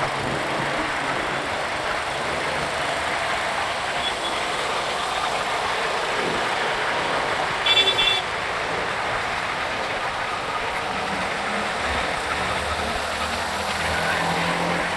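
Steady road and traffic noise heard from a motorcycle moving through city traffic, with one short vehicle horn honk a little past halfway.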